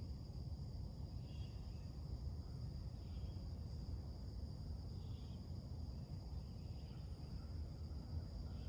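A steady late-summer insect chorus, a continuous high buzz, with short bird chirps every couple of seconds, over a low background rumble.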